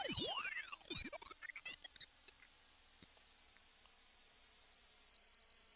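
A loud, very high-pitched electronic pure tone that glides slowly and steadily downward in pitch.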